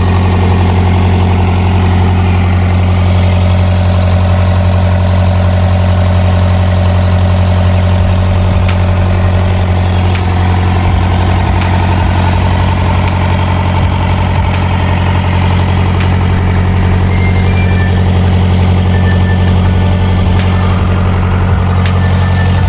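Freshly overhauled Mitsubishi K4F four-cylinder diesel engine idling steadily after a restart, its main and connecting-rod bearings newly replaced.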